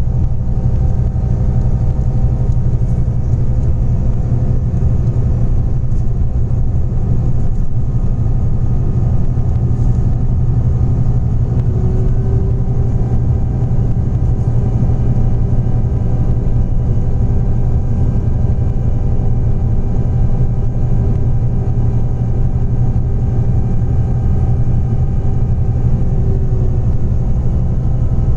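Scania Interlink bus's natural-gas (CNG) engine running with a steady low drone while driving, with road noise. A faint higher whine comes in about twelve seconds in and fades near the end.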